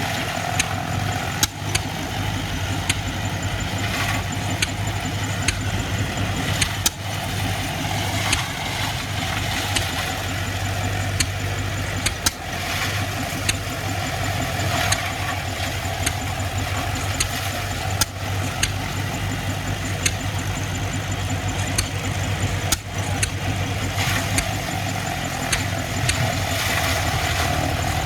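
Antique tractor engine running steadily, working silage-making machinery, with frequent sharp clicks and knocks at irregular intervals.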